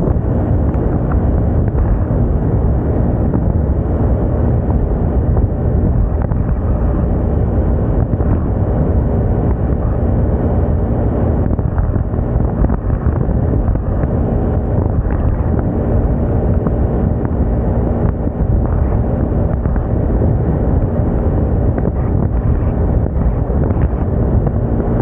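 Heavy wind rumble on the microphone of a moving Moda Moca 110 scooter, with the scooter's engine humming steadily underneath.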